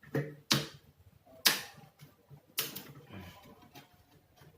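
Sharp clicks and knocks of metal parts on a cup sealing machine being handled as the bolts holding its cup holder tray are undone, about four loud clicks, the loudest about a second and a half in, with softer taps between.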